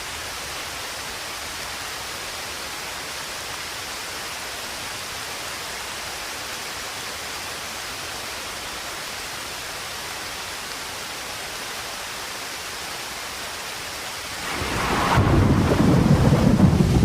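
Steady rain hiss; near the end a loud low rumble of thunder swells in and keeps going.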